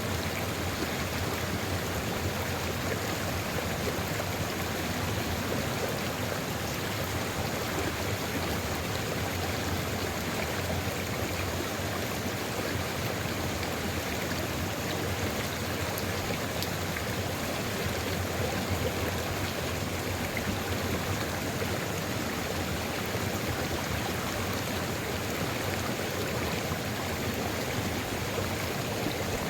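A sulfur river's water flowing steadily: an even, unbroken rush of running stream water with no changes or separate events.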